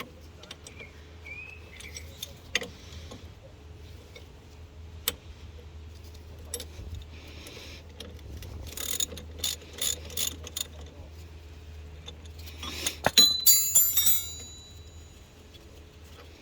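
Hand tools clicking and clinking against metal suspension parts, with a run of clicks partway through and a loud burst of metal clattering and ringing about thirteen seconds in, over a steady low hum.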